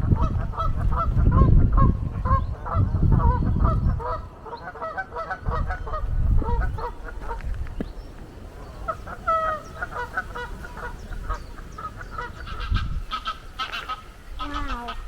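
Geese honking, many short calls in quick overlapping succession. Heavy low rumble on the microphone in the first four seconds, with shorter bursts later.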